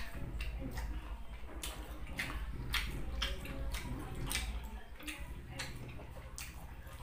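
Close-miked chewing of a mouthful of beef patty and rice: wet mouth clicks and smacks, irregular, about two to three a second, over a low background hum.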